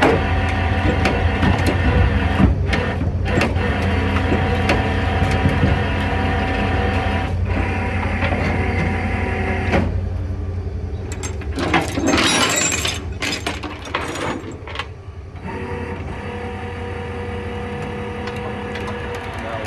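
Flatbed tow truck running steadily with its hydraulics engaged while the winch pulls a tireless junk car up the bed. A harsh, noisy stretch comes about eleven seconds in, and the sound dips briefly a few seconds later before the steady running resumes.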